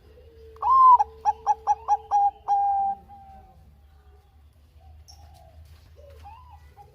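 Zebra dove (Bangkok perkutut) song: one phrase of an opening coo, a run of about six quick staccato notes, and a longer held closing note, lasting a little over two seconds.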